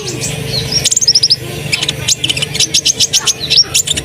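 Olive-backed sunbirds (kolibri ninja) singing: a dense run of rapid, high-pitched chirps and short trills, with more than one bird calling, over a faint steady low hum.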